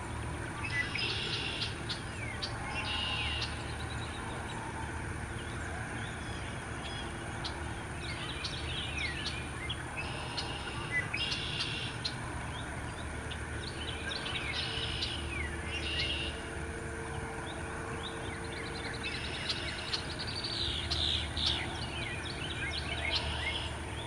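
Songbirds singing around a pond. One bird repeats a short trilled phrase every second or few, among quick chirps from others, over a steady low rumble.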